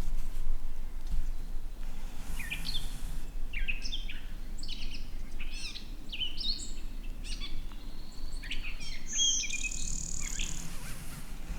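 Wild birdsong: a run of quick chirps and sweeping whistles starting about two seconds in, over a low rumble.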